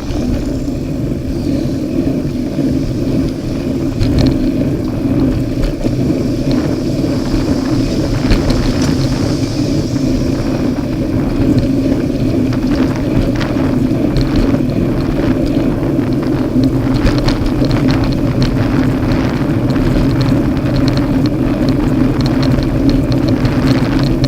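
Road traffic: a motor vehicle's engine running steadily close by, with scattered clicks and rattles throughout.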